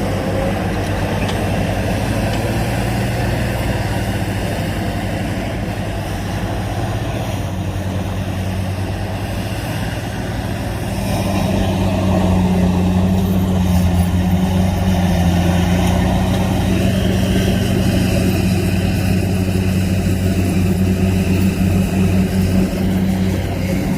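Heavy diesel engine of earthmoving machinery running steadily under load, getting a little louder about halfway through.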